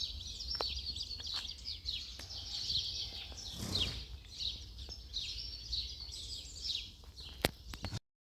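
Several small songbirds singing and chirping at once in a dense chorus, over a steady low rumble. A brief rush of noise comes about halfway through. The sound cuts off suddenly at the very end.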